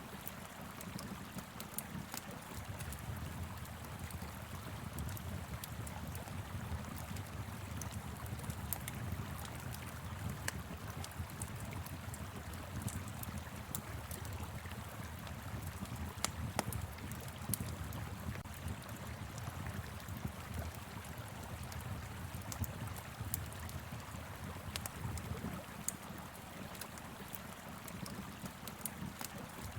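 Wood fire crackling, with scattered sharp pops, over the steady rush of a flowing river and a low wind rumble.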